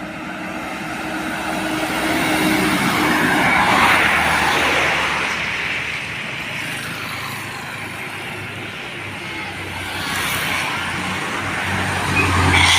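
Road vehicles passing by, with engine and tyre noise swelling as one goes past about four seconds in and another approaches near the end.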